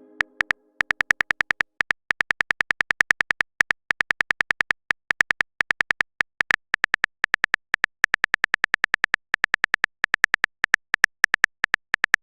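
Rapid clicking of a phone-keyboard typing sound effect, about six or seven short ticks a second with a few brief pauses, as a message is typed out.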